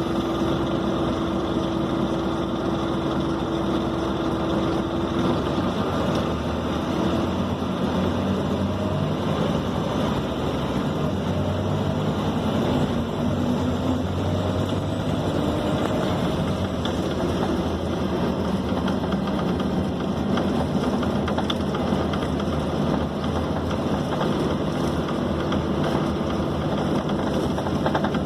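Scania K270 city bus's diesel engine running under way, heard from inside the passenger cabin along with road and body noise; the engine's pitch shifts and glides in the middle as the bus changes speed.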